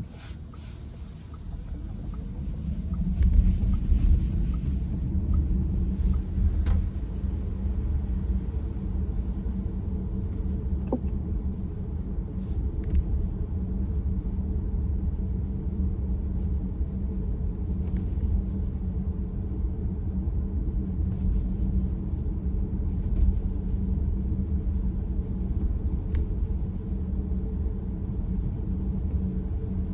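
Car driving: steady low road and engine rumble that builds over the first few seconds as it picks up speed, then holds, with a few faint clicks.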